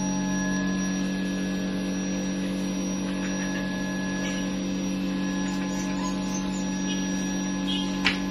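A steady electrical hum made of several held tones, with faint scattered ticks and one sharp click near the end.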